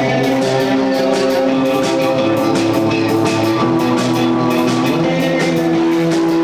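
Rock band playing: sustained guitar notes over a drum kit with evenly repeating cymbal strokes.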